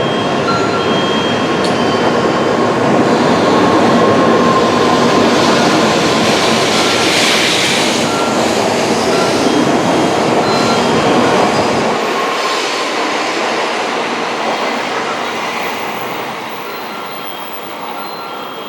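A Tokaido Shinkansen train running along the platform: a loud rumble with a thin whine that peaks in the middle and fades over the last several seconds as the bass drops away. Short electronic tones repeat steadily throughout.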